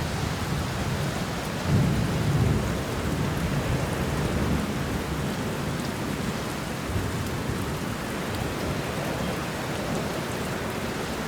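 Steady rain, with a low rumble of thunder that swells suddenly about two seconds in and dies back over the next few seconds.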